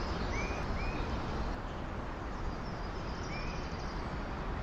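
Steady outdoor background noise with a bird giving short chirps, two close together near the start and one more about three and a half seconds in.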